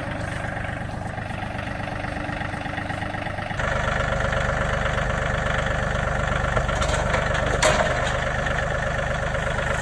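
John Deere 3032E compact tractor's diesel engine running steadily. It gets abruptly louder about three and a half seconds in, with a single sharp knock about two-thirds of the way through.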